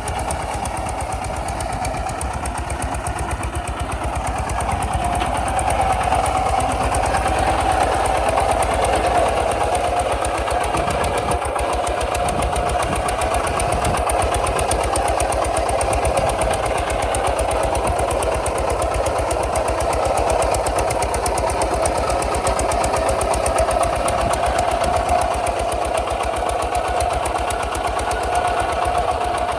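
Kubota RT 140 DI single-cylinder diesel tractor engine running steadily with an even, rapid firing beat, getting a little louder about five seconds in.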